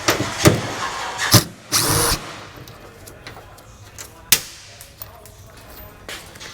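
Hand and power-tool work on a Humvee's body mounts: a few sharp metal knocks and a brief burst of a power tool about two seconds in, then lighter scattered clicks.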